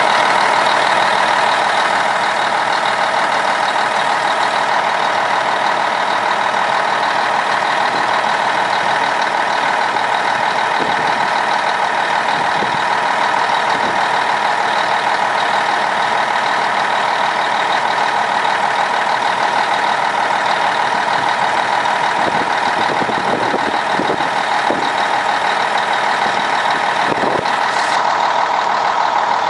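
Scania K113 bus's 11-litre six-cylinder diesel engine running steadily.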